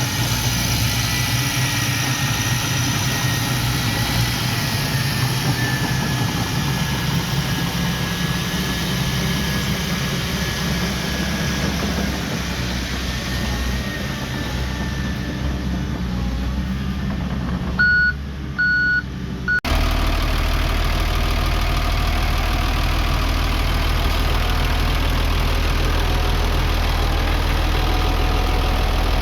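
Heavy earthmoving equipment engines running steadily. About two-thirds of the way in, a backup alarm beeps three times. Right after, the sound cuts abruptly to a deeper, steady engine drone.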